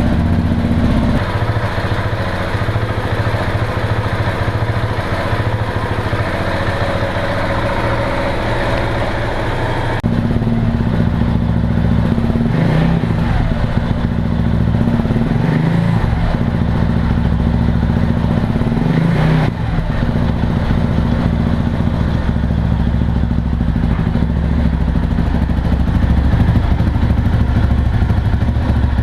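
KTM 690 single-cylinder motorcycle engine running at idle through its exhaust, with the throttle blipped a few times in the middle so the revs rise and fall.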